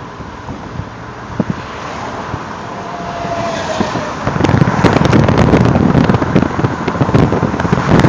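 Steady road and wind noise, jumping much louder about four seconds in, when wind starts buffeting the microphone with dense crackling.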